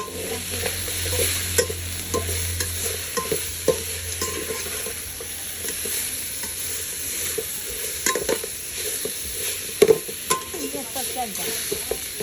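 Food sizzling in a hot pan while being stirred, a steady frying hiss with irregular clinks and knocks of a utensil against the pan; the loudest is a quick double knock near the end.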